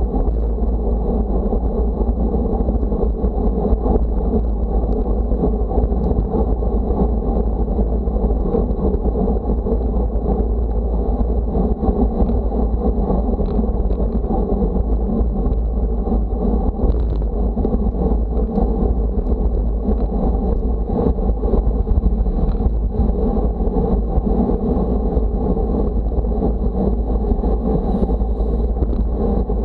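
Steady, loud wind buffeting the microphone, with a continuous low rumble of road noise from riding at speed.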